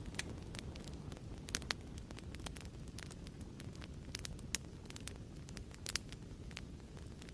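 Wood fire crackling in a fireplace: a steady low rumble and hiss with frequent small snaps, and a few sharper pops scattered through.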